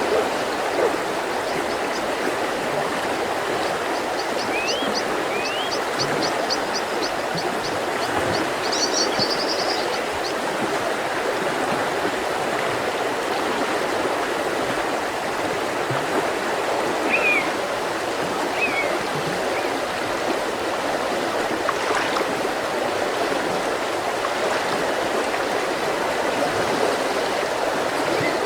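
Mountain river flowing steadily over stones, with small birds calling over it: a few short rising chirps, a fast trill of high ticks at about five a second a few seconds in, and more chirps later.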